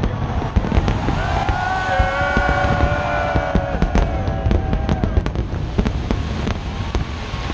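Aerial fireworks going off in rapid bangs and crackles over a steady low rumble, with several long held tones in the middle.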